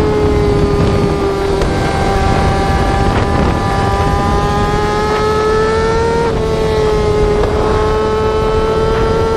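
Yamaha R6 inline-four sport-bike exhaust held at high revs, a steady high-pitched wail. It rises slightly, drops a little about six seconds in, then slowly climbs again.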